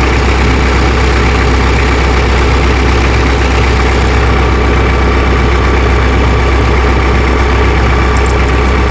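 Tractor engine idling steadily, with a few faint light clicks on top.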